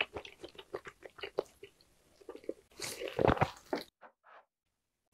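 Close-miked chewing of grilled lamb, with quick wet clicks and smacks of the mouth. A louder, fuller burst of chewing noise comes about three seconds in, then the sound cuts out almost entirely about a second later.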